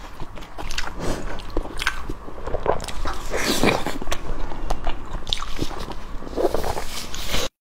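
Close-miked chewing and biting of saucy pig skin: irregular wet mouth clicks and chews. The sound cuts off abruptly near the end.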